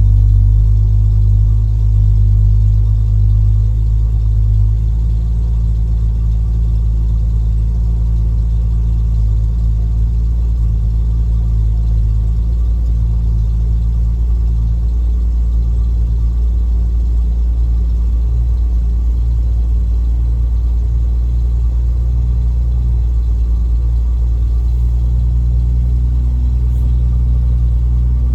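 1970 Triumph TR6's straight-six engine idling steadily as it warms up after a cold start, settling a little quieter about four seconds in.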